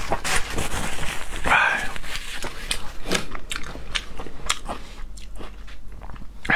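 Close-miked chewing of crunchy food: a quick run of crisp crunches and wet mouth clicks that thins out toward the end.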